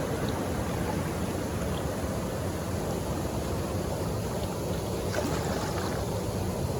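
Steady rushing of water from a nearby waterfall.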